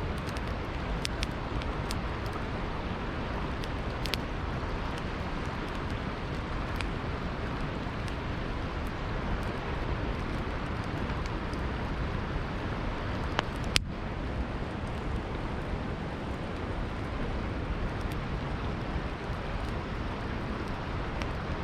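Campfire crackling, with scattered sharp pops and one louder pop about two-thirds of the way through, over a steady rushing of river water.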